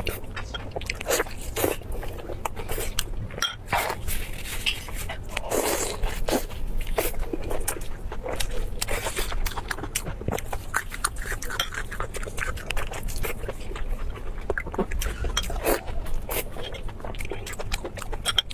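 Close-miked eating: a person chewing and crunching crispy food, with a dense run of irregular crackling bites.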